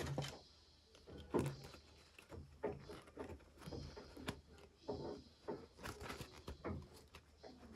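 Hands handling small plastic toys and their packaging: irregular clicks, taps and rustles, with a sharper knock or two.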